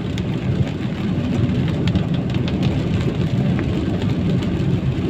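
Steady low rumble of a vehicle's engine and tyre noise while driving on a wet road in the rain, with scattered light ticks.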